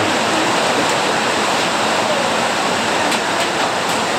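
Heavy rain pouring down in a steady, dense hiss, with a few sharper drip ticks in the second half.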